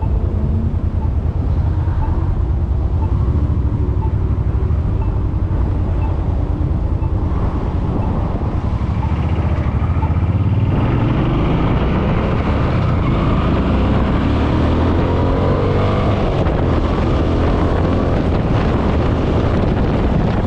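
Suzuki Boulevard M50's V-twin engine running under way on the road. About halfway through it speeds up, its pitch climbing through several rises as the bike accelerates.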